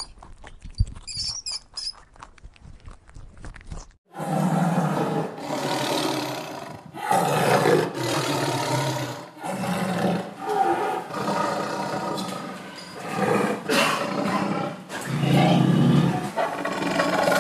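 A rat chewing food with quick small crunching clicks, then from about four seconds in a tiger roaring and growling in a string of long, loud calls, one after another.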